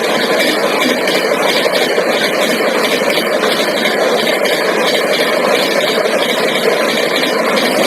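Train running at high speed: a steady, loud rush of wheel and air noise with no change.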